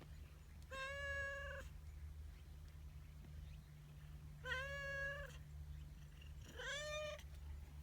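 Calico cat meowing three times, each call just under a second long, the last one rising in pitch, over a steady low hum.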